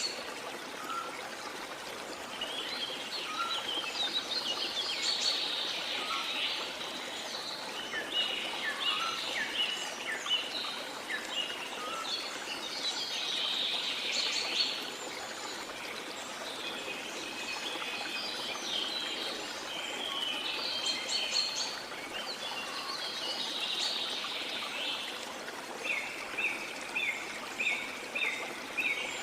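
Tropical rainforest ambience: a steady rush of falling water under many birds calling and chirping in overlapping bouts. Near the end, one bird repeats a short chirp about two times a second.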